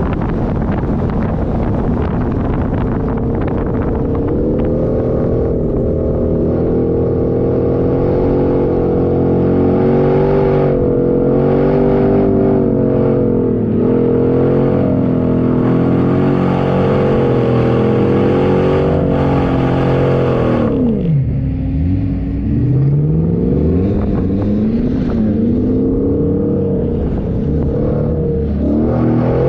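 Off-road 4x4's engine pulling under load through desert sand, its revs wavering up and down. About two-thirds of the way through the revs drop sharply, then climb back in several rising surges.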